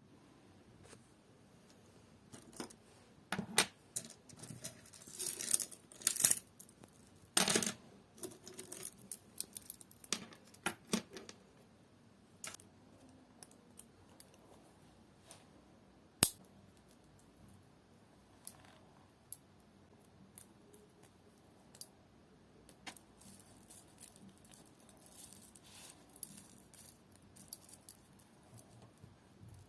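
Scattered clicks, taps and short rustles of small hard objects being handled, busiest in the first ten seconds or so, with one sharp click about midway.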